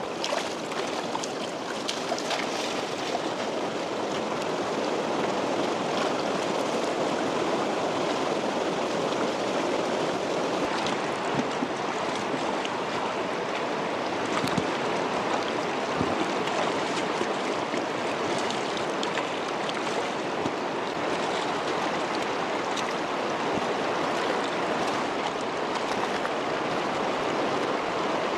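River water flowing steadily over stones, an even running-water noise.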